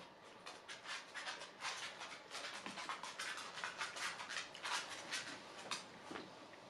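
Close-miked eating sounds: irregular, wet chewing smacks from a man gumming his food without teeth, with a spoon working through food in a plastic bowl.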